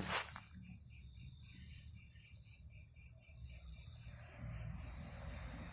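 Crickets chirping at night: a steady, high, rapidly pulsing trill that carries on without a break, with a low rumble beneath it.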